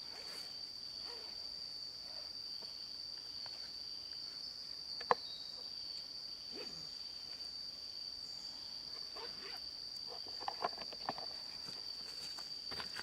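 Steady high-pitched insect drone of jungle ambience, one unbroken tone, with a sharp click about five seconds in and a few light knocks near the end.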